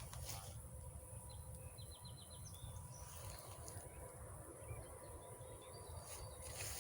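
Faint bird calls outdoors: a few short, high chirps and a quick run of about five notes at about 2 seconds, over a low steady rumble.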